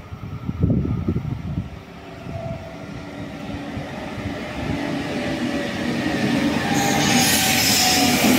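Hitachi Rock double-deck electric regional train approaching and running in alongside the platform, its rumble and steady whining tones growing steadily louder as it draws level. Gusts of wind buffet the microphone in the first second or two.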